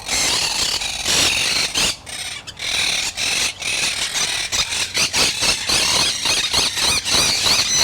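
Quaker parrots (monk parakeets) chattering and screeching in a rapid run of short shrill calls, with wavering warbled notes growing stronger in the second half.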